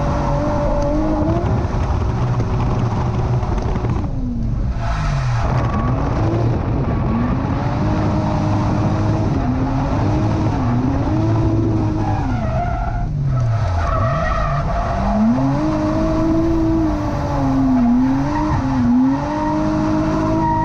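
Car engine revving up and down hard with tyres squealing and skidding, as in drifting. The engine's pitch climbs and falls repeatedly, dropping away steeply twice, over a steady rush of tyre noise.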